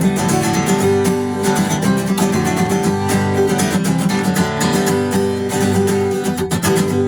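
Strummed acoustic guitar playing a steady rhythm in an instrumental break of a rock song, with no singing.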